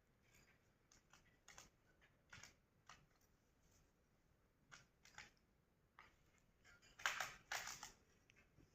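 Faint pecking and scratching from budgerigars: scattered short clicks, with a louder run of them about seven seconds in.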